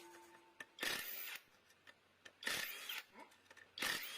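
A hand tool rasping against engine metal in repeated strokes, three of them, each about half a second long with short pauses between.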